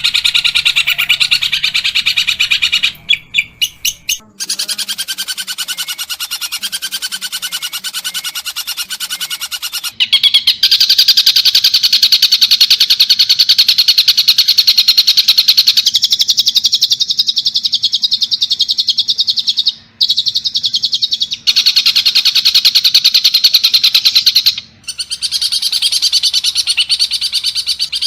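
Long-tailed shrike (pentet) singing a loud, harsh, very fast chattering song of rapid repeated notes, in long runs broken by a few short, abrupt gaps.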